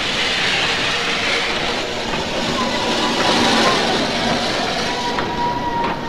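Train running: a steady, dense rumbling hiss of an old passenger train, with a thin steady tone sounding briefly in the middle and again near the end.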